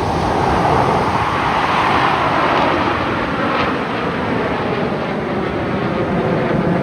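Jet engines of Blue Angels F/A-18 Super Hornets flying past: a loud, steady rushing noise that swells about a second in, eases a little in the middle and builds again near the end.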